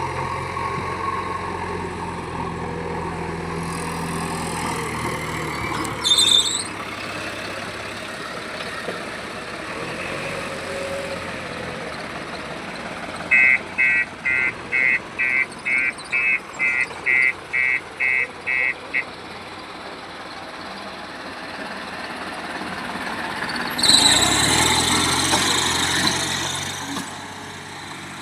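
Heavy vehicle engine running, with a brief high squeal about six seconds in. Midway a reversing alarm beeps about twice a second for several seconds. Near the end a vehicle's engine grows loud, then fades.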